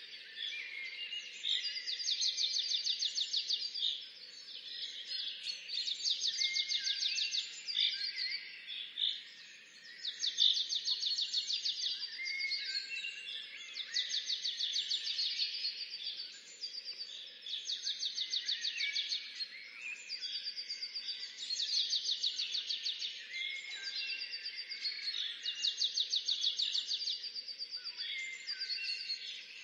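Songbirds singing. A high, fast trill of rapidly repeated notes comes back every few seconds, with shorter chirps from other birds in between.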